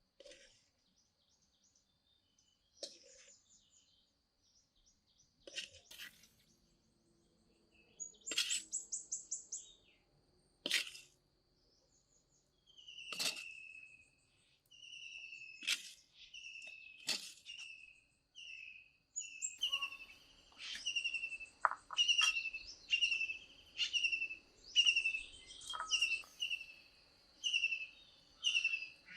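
Birds singing: short falling chirps repeated about once a second, coming faster in the second half, with a quick high trill in the first half and a few sharp clicks.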